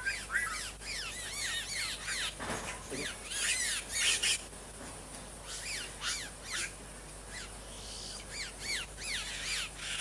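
A colony of boyeros (caciques) calling: many short, arched whistled and chattering notes from several birds at once, with a brief lull about halfway through.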